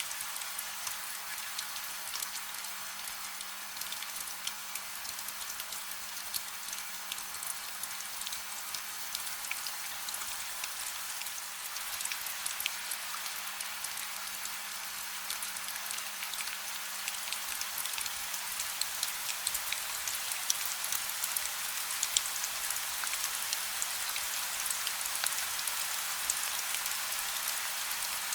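Steady gentle rain with no thunder, many small drops pattering on a surface, growing slightly heavier in the second half. A faint low hum runs underneath.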